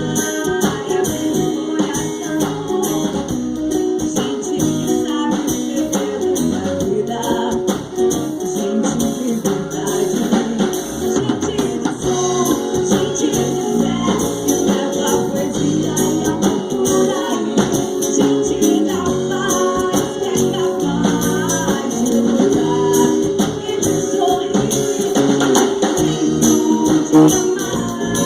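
Live band playing a reggae-pop song, with a steady percussive beat.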